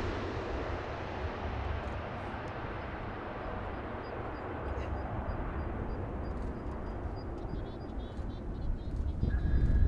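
Jet airliner noise fading away just after the plane passes low overhead on its landing approach, with faint bird chirps as it dies down. A low rumble builds again near the end.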